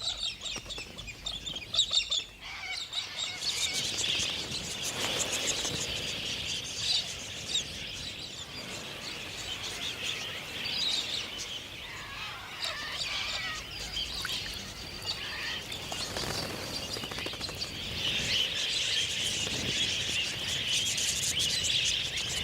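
Parrots calling: a steady mass of chirps and screeches, with a few sharp clicks in the first couple of seconds and the chatter growing louder near the end.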